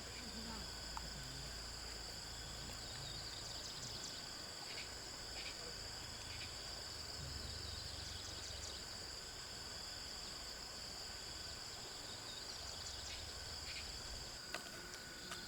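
Steady chorus of field insects, a continuous high-pitched trill without a break, over faint low background noise.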